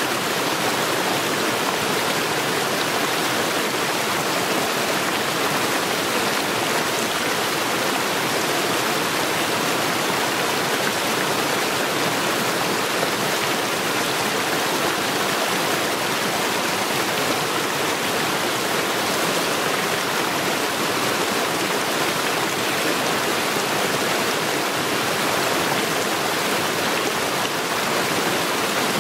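Stream water rushing steadily over stones, an even unbroken rush with no change in level.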